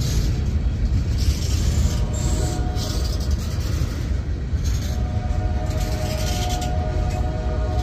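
Freight train cars rolling past close by, a heavy, steady low rumble with hissing wheel-on-rail noise. A steady mid-pitched tone fades in the middle and comes back strongly about five seconds in.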